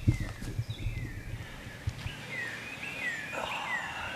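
Songbirds singing in the woods, a series of short falling whistled notes repeated over and over. Low knocks and rumbling in the first two seconds, and a short rustle near the end, come from the downed turkey being handled.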